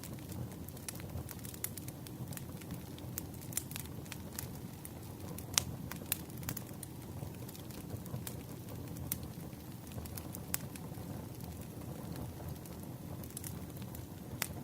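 Campfire burning: a steady low rumble of the flames with scattered wood crackles and small pops, one sharper pop about five and a half seconds in.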